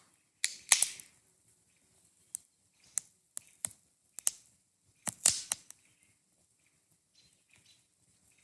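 Wood campfire crackling: irregular sharp pops and snaps, with a loud cluster about half a second in and another about five seconds in, then only faint ticks near the end.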